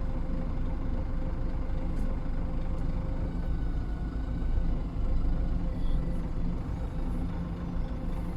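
GAZon Next truck's engine running steadily as the truck pulls away and drives slowly.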